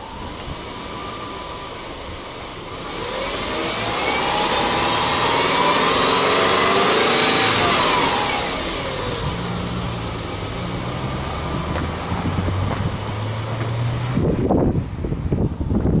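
Subaru Legacy Touring Wagon 2.0i's flat-four engine, hood open, being free-revved: the engine note climbs for about four seconds, holds briefly and falls back to a steady idle. Irregular knocks come in near the end.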